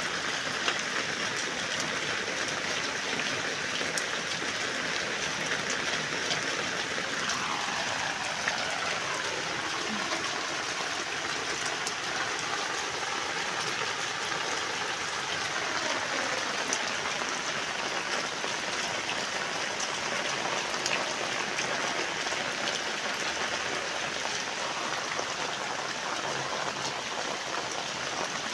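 Steady rain falling on floodwater and wet concrete, an even hiss throughout.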